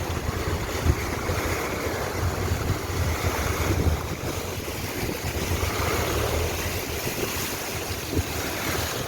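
A car driving through deep floodwater: a steady rush and splash of water around the car over a low engine hum.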